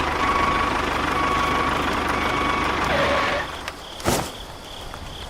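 A motor running with a steady high whine, which stops about three and a half seconds in. A single sharp knock follows about half a second later.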